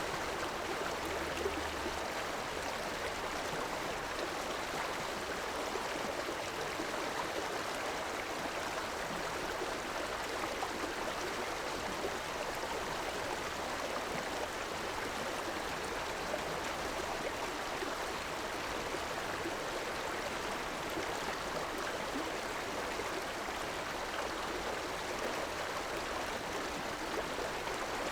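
A river flowing, a steady rushing and gurgling of water with no breaks.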